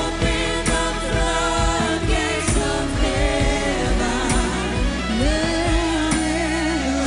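Live worship music: a band with bass and drums playing while voices sing sustained, wordless melodic lines.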